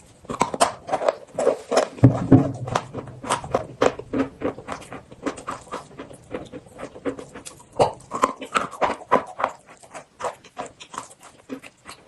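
Chewing and crunching of eating chalk and chalk paste: many quick, irregular crunches and mouth clicks.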